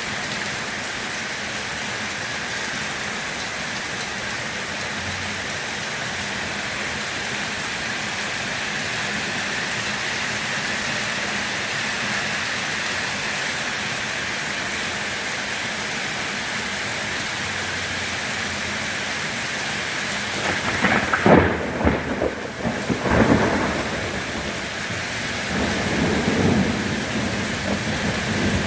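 Steady rain falling, then about three-quarters of the way through a sharp, loud crack of thunder followed by low rolling rumbles.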